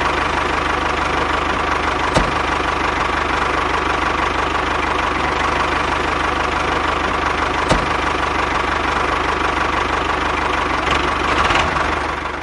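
Small toy-scale motor running steadily with a fast, even rattle, and a couple of sharp clicks partway through.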